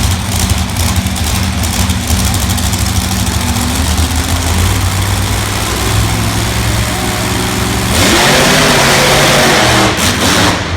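Big engine running steadily, then revving hard and very loud for about two seconds near the end before settling back. Most likely a monster truck engine.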